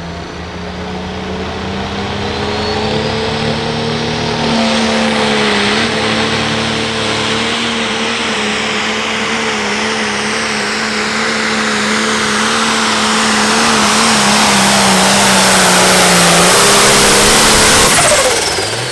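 Light pro stock diesel pulling tractor at full throttle, dragging the sled down the track. The engine holds a steady high pitch and grows steadily louder over the run, then drops off suddenly near the end as the throttle is released.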